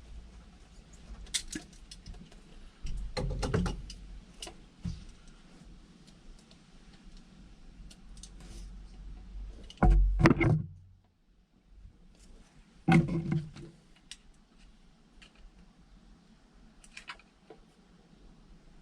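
Hands working on a small outboard engine's fuel pump and hoses make scattered light clicks and metallic rattles. There are louder knocks and scrapes about three and a half, ten and thirteen seconds in.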